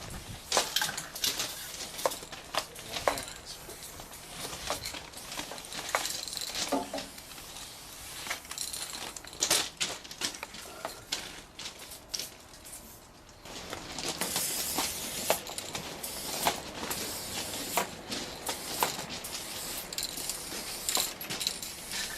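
Aerosol spray paint cans: sharp metallic clicks and rattles scattered throughout, with stretches of high-pitched spray hiss, loudest a little past the middle.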